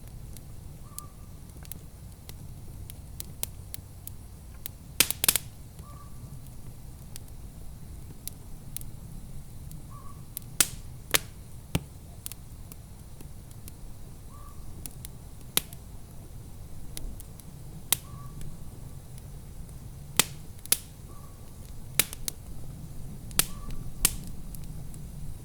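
Wood fire crackling, with irregular sharp pops, some loud, over a steady low rumble.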